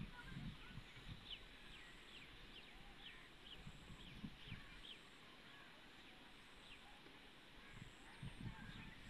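Faint bird chirps: short falling notes about two a second, thinning out after the first half, over soft low rumbles.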